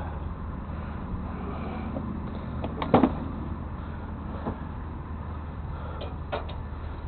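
Steady low engine drone with one sharp clunk about three seconds in and a few lighter clicks near the end.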